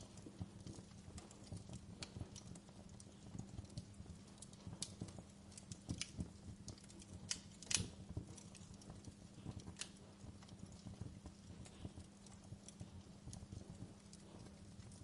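Wood fire crackling: irregular sharp pops and snaps over a low steady rumble, with one louder pop about halfway through.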